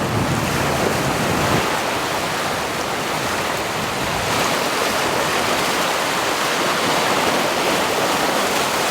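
Waves breaking over the reef and washing onto the sand, a steady rushing hiss. Low wind rumble on the microphone fades out about a second and a half in.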